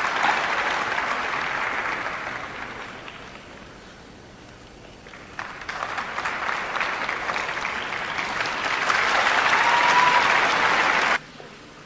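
Arena audience applauding: the clapping dies down, swells again for several seconds, then cuts off abruptly near the end.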